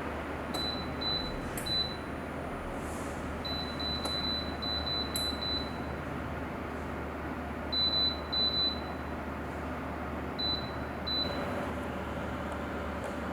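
Short, high electronic beeps from a wall-mounted bathroom space heater's control panel as its buttons are pressed, about a dozen in scattered runs. They sound over a steady noise of air blowing from the heater's fan.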